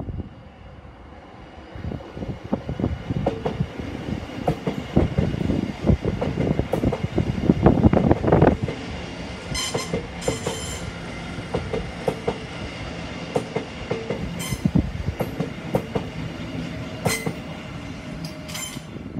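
Electric multiple-unit passenger train passing close by, building to its loudest partway through, its wheels clattering rhythmically over the junction's rail joints and pointwork. Brief high wheel squeals ring out several times in the second half as the coaches go by.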